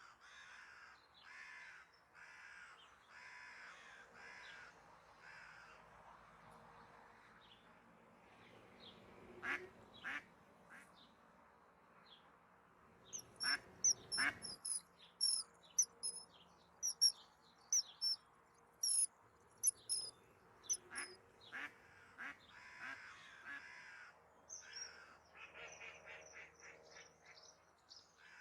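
Lagoon birds calling: a duck quacks in a series of about six evenly spaced calls at the start and again near the end. In between comes a quick run of sharp, high chirps from a small bird.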